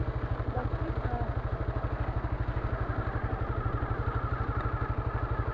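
Small motorcycle engine idling at a standstill, a steady, even beat of about ten pulses a second.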